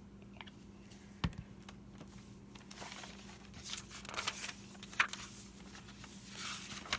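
Paper and journal pages being handled and rustled, with a sharp tap on the table about a second in and a click about five seconds in, over a faint steady hum.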